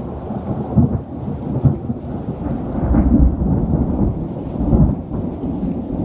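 Thunder rumbling in a long, low roll that swells several times.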